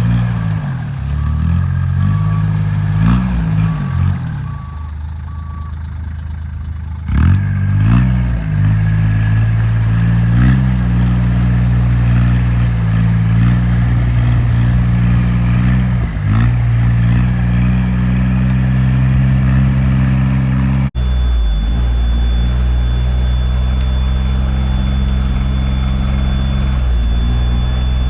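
Off-road vehicle engine running hard, its pitch rising and falling repeatedly as it is revved and eased off. A steady run of short beeps sounds over it for the first few seconds. About 21 s in the sound cuts abruptly, then the engine carries on at a steadier pitch with a thin high whine over it.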